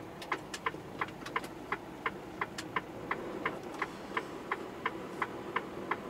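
A truck's indicator relay ticking steadily in the cab, about three to four clicks a second, over the low steady run of the engine.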